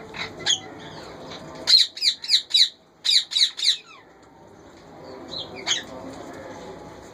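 Indian ringneck parakeets squawking. There are a couple of short calls, then two rapid runs of three or four loud calls with a brief pause between them, and a single call later on.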